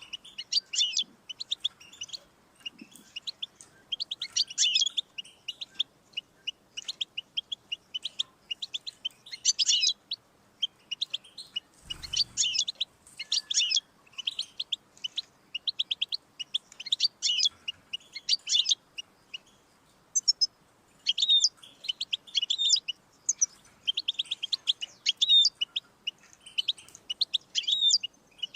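European goldfinch singing: fast, liquid twittering phrases of short notes in bursts of a second or two with brief pauses between. A soft low thump about twelve seconds in.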